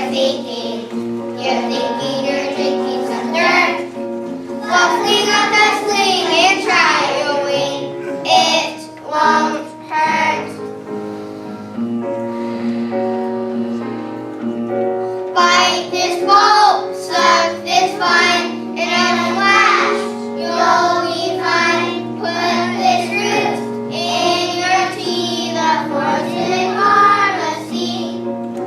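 A group of children singing a song with musical accompaniment, with a short instrumental stretch about twelve seconds in.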